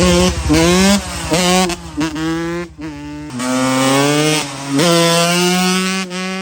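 Dirt bike engine revving hard, its pitch climbing several times and dropping back between climbs as it accelerates.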